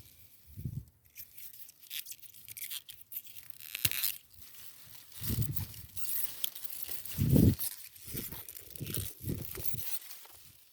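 Pea plants rustling and pods being snapped and torn off by hand: irregular crackles and tearing sounds, with a few low bumps, the loudest about seven seconds in.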